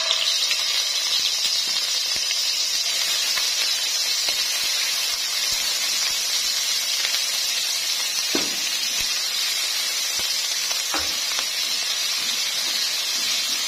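A spoonful of paste frying in hot oil in a nonstick pan: a steady sizzle that starts suddenly as it hits the oil, with two short knocks about eight and eleven seconds in as a silicone spatula stirs it. The paste is being fried until light brown.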